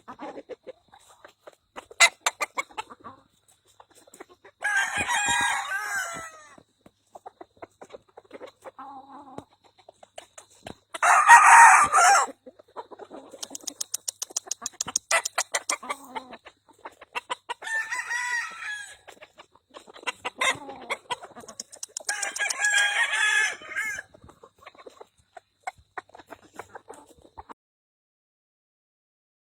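Game-fowl roosters crowing about four times, each crow one to two seconds long, the loudest about eleven seconds in. Short clucks and clicks come between the crows.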